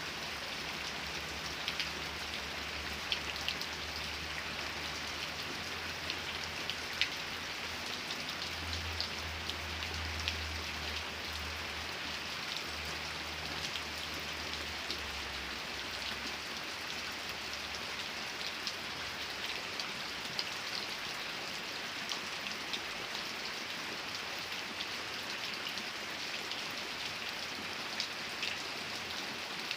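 Steady rain falling, with individual drops ticking sharply on a hard surface here and there. A low hum sits underneath and fades out about halfway through.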